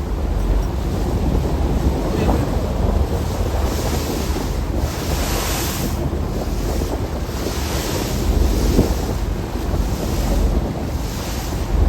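Wind buffeting the microphone on the Staten Island Ferry under way, over a steady low rumble. The gusts swell and fade every second or two, loudest about five seconds in.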